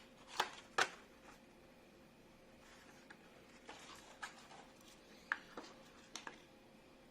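A handful of light, sharp clicks and taps at irregular intervals, the loudest two within the first second, from the handling of a small USB mini vacuum cleaner whose motor is switched off. A faint steady hum runs underneath.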